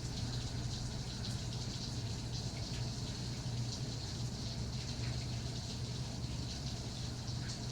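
Steady rain: an even hiss of falling water with individual drops ticking through it, over a steady low hum.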